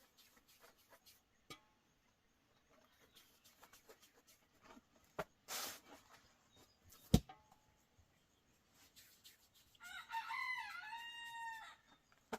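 A rooster crows once near the end, a single call of about two seconds. Before it, scattered light knocks and a brief rustle, with one sharp click about seven seconds in.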